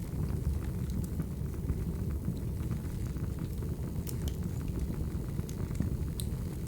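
Wood fire burning with a low steady rumble and scattered crackles and pops, a few sharper pops near the end.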